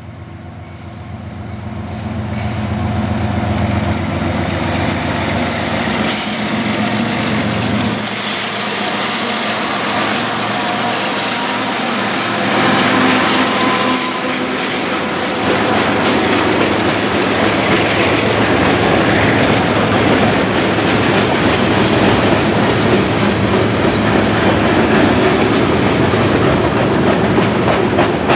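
Freight train passing with three diesel locomotives in the lead: the locomotive engines grow louder over the first few seconds as they approach and go by. Then a long string of freight cars rolls past, with the wheels clicking steadily over the rail joints.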